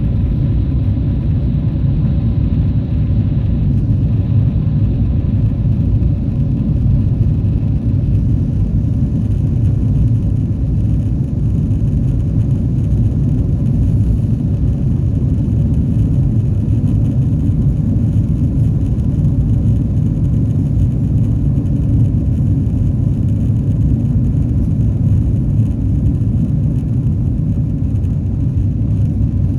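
Boeing 777-300ER's GE90 turbofan engines at takeoff thrust, heard from inside the cabin as a loud, steady low rumble. A faint whine fades out in the first few seconds.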